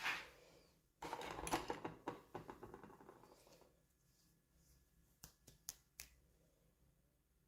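Handling of toy packaging: a short crackle, then a longer crinkly rustle of plastic wrapping that fades out, followed by a few sharp small clicks of plastic pieces.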